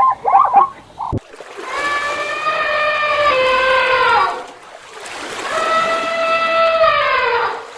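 Two long, steady-pitched animal calls, each about three seconds and dropping in pitch at the end, after the last of a run of quick yapping barks.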